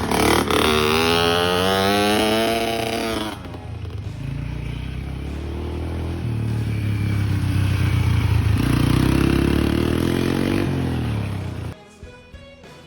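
Dirt bike engine revving, its pitch climbing for about three seconds, then running lower and rising again more gently before cutting off sharply near the end.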